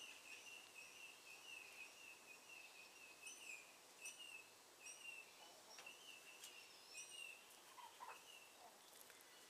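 Chickens calling faintly with a steady run of short, high-pitched peeps, about two or three a second.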